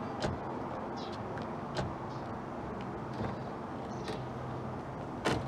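A vehicle engine running steadily, with a few short knocks one to two seconds apart.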